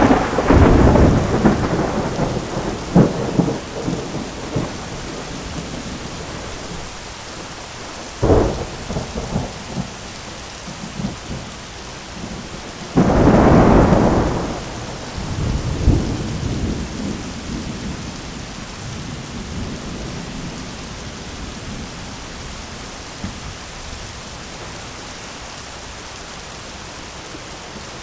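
Thunderstorm: steady rain with rolls of thunder. A rumble dies away over the first few seconds, a short sharp crack comes about eight seconds in, and a louder clap about thirteen seconds in rumbles off over several seconds.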